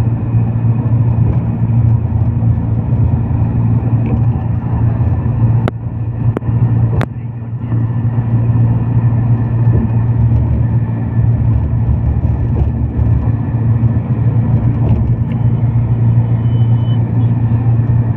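Steady low rumble of a road vehicle travelling on a highway, with a few sharp clicks about six to seven seconds in.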